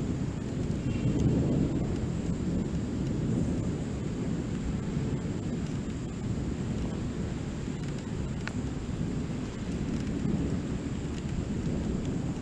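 Thunder rumbling low and continuously during a lightning storm, swelling slightly about a second in.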